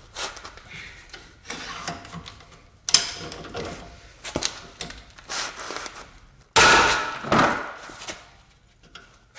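Metal hand tools knocking and scraping on the front suspension as a Torx 60 bit and wrench work the gas strut's nut. A loud sudden clank comes about two-thirds through, where the Torx bit gives way under the load, then another knock.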